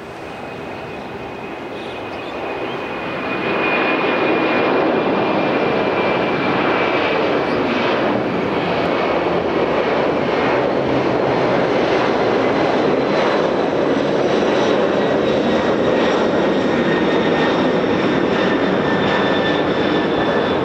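Large aircraft's engines running loud and close, growing louder over the first few seconds and then holding steady, with a high whine that slowly falls in pitch.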